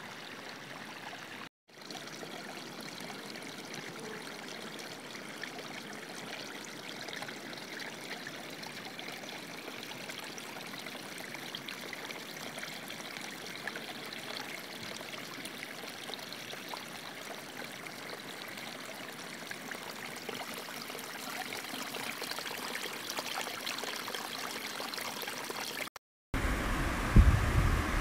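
Running water rushing steadily. The sound cuts out briefly twice, and after the second gap near the end it comes back louder, with a deep rumble underneath.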